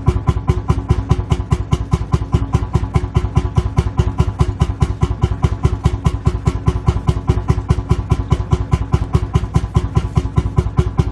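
Lanz Bulldog tractor's single-cylinder two-stroke hot-bulb engine idling, with a steady, even beat of firing strokes, several a second.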